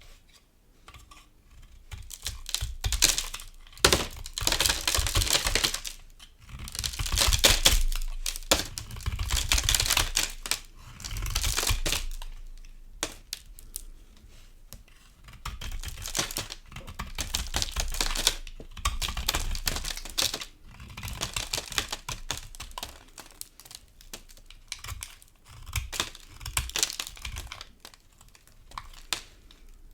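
Dry soap crunching and crackling as it is carved, in crisp runs of one to three seconds with short pauses between.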